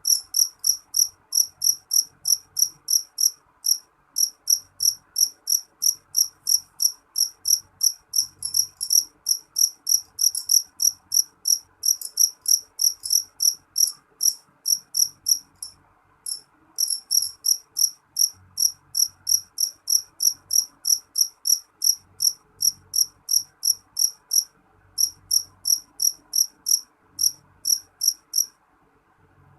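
A cricket chirping in a steady, fast rhythm of about three short, high-pitched chirps a second, pausing briefly a few times.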